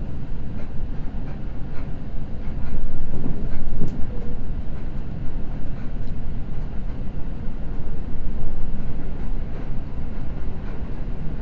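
Seibu Red Arrow limited express running at speed, heard from inside the car: a steady rumble of wheels on the rails with faint, fairly regular clicks, swelling a little about three seconds in.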